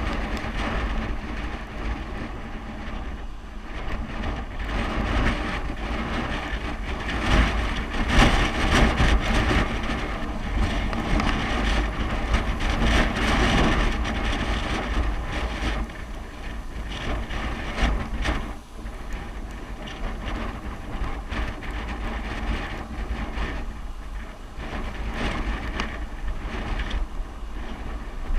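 Wind buffeting the microphone during a downhill bicycle ride: a steady rushing with a deep rumble, swelling louder about eight seconds in and again around thirteen seconds.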